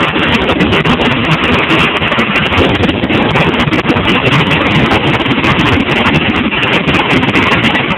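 Helicopter running close by: a loud, steady rush of rotor and engine noise.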